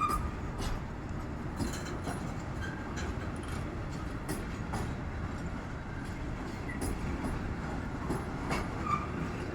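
Train running along the track: a steady low rumble with irregular clicks of the wheels over rail joints, and a few brief, faint squeaks.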